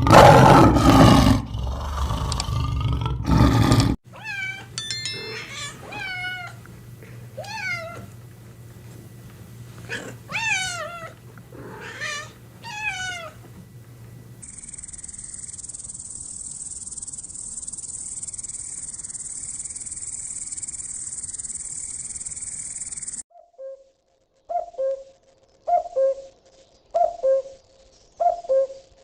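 A sequence of animal calls: a loud animal roar that cuts off about four seconds in, then a run of about ten falling, meow-like cries, then a steady high-pitched insect-like hiss. Near the end come low hooting or cooing calls repeated a little more than once a second.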